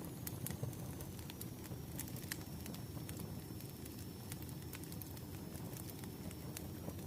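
Wood fire burning, with irregular crackles and pops over a low steady rumble.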